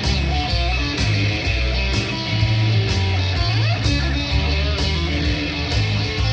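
Live band playing an instrumental stretch of a blues song: electric guitar over bass and drums, with a steady beat of cymbal strikes.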